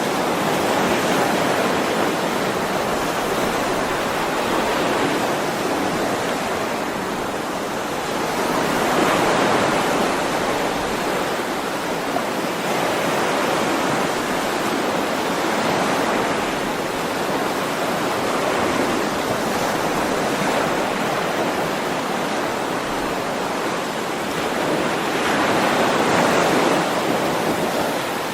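Ocean waves breaking and washing on a shore in a continuous rush, swelling with each wave every several seconds.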